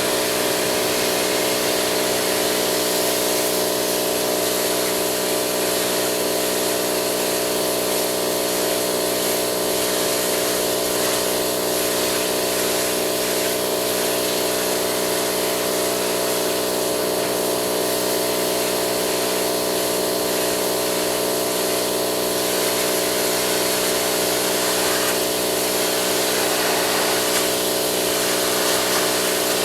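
Pressure washer running steadily with its spray hissing: a constant motor-and-pump hum under a broad spray hiss, with no change in speed.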